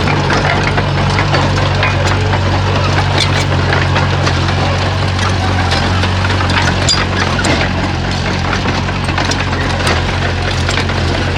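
Bulldozer's diesel engine running steadily, with many short sharp cracks and clicks scattered over it.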